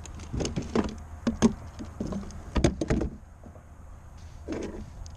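Irregular sharp clicks and knocks of fishing tackle being handled on a kayak, bunched in the first three seconds, with one softer knock near the end.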